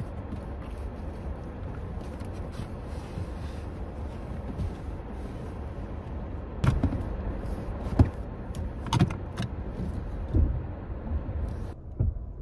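Car engine running steadily, heard from inside the cabin, with a few sharp knocks and clicks in the second half as things are handled in the car.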